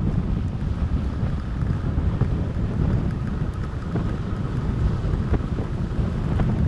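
Wind buffeting the microphone of a fat bike in motion: a steady, loud low rumble, with a few faint ticks.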